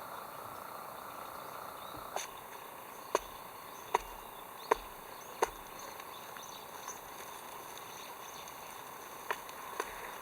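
A run of sharp knocks, five about three-quarters of a second apart, then two more near the end, over a steady insect-like background hum.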